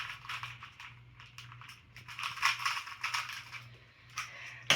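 Irregular small clicks and rattles of plastic pieces being handled, over a steady low hum.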